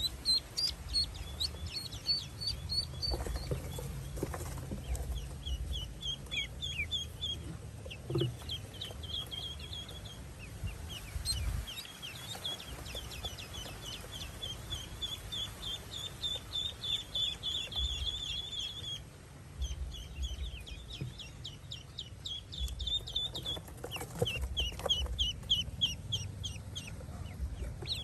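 Ducklings peeping: quick runs of short, high peeps, over a low rumble.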